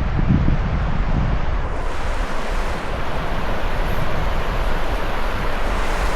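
Surf washing onto a beach, with wind buffeting the microphone; the wind rumble is heaviest in the first second or so and the hiss of the waves comes up from about two seconds in.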